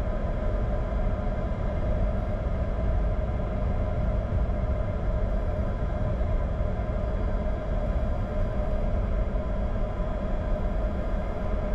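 Cockpit noise of a Bombardier Challenger 605 taxiing with its GE CF34 turbofans at idle: a steady hum made of several even tones over a low rumble.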